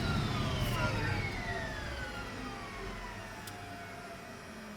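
Allison turbine engine of a Soloy-converted Cessna 206 spooling down after shutdown: a whine of several tones that fall steadily in pitch and fade.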